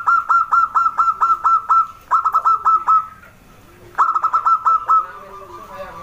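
Zebra dove (perkutut) calling: rapid runs of short, clipped cooing notes, about seven a second. It comes in three bursts, with a short break after about two seconds and a longer one before the last burst, about four seconds in.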